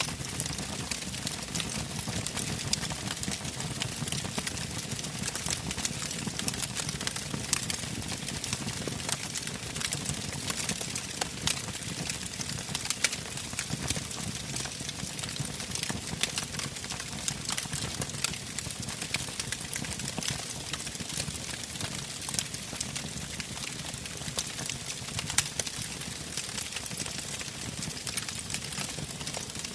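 Campfire burning: wood crackling and popping in a dense, irregular stream over a low steady rumble of flames, with a few louder pops, one about thirteen seconds in and one about twenty-five seconds in.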